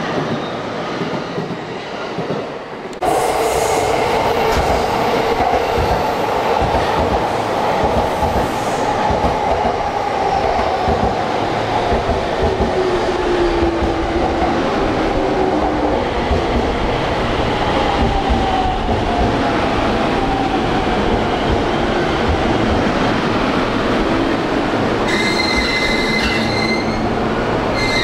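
E231-500 series electric commuter train pulling out of a station past the platform, the cars rolling by close with the steady hum and gliding tones of its electric drive. A thin high wheel squeal comes in near the end.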